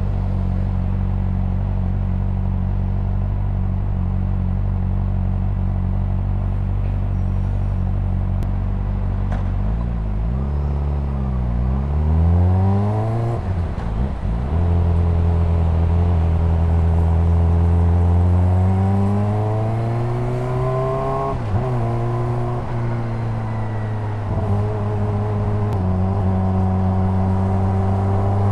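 Honda CBR600RR inline-four engine idling steadily for about ten seconds, then pulling away and revving up through the gears. Its pitch rises, drops sharply at each upshift (twice), and settles into a steady cruise near the end.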